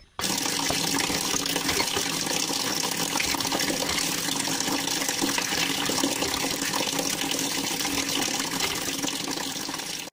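A thin stream of water pouring from a miniature hand-pump spout into a shallow metal dish of water, splashing steadily. It cuts in suddenly and cuts off suddenly at the end.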